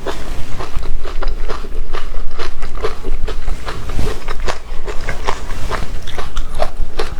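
A person chewing and biting food: a dense, irregular run of clicks and smacks from the mouth.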